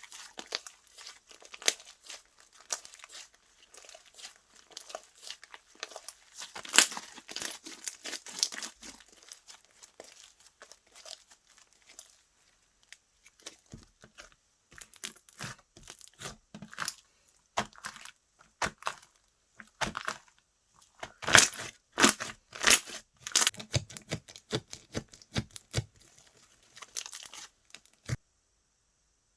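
Slime being squeezed and stretched by hand, giving dense runs of crackling, popping clicks. It goes quieter for a few seconds in the middle and stops abruptly shortly before the end.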